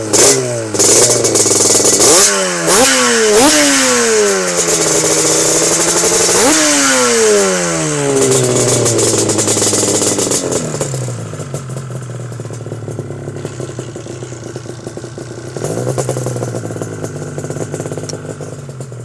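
Twin-cylinder two-stroke motorcycle engine with two carburettors and two exhausts, blipped sharply five times, each rev falling away again. It then settles into a steady idle that picks up slightly near the end.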